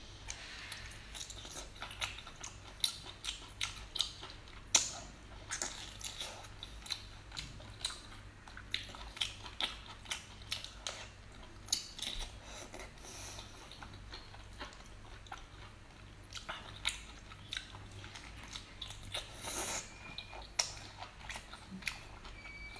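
Close-miked chewing and biting on braised octopus tentacles, with many short smacking clicks throughout.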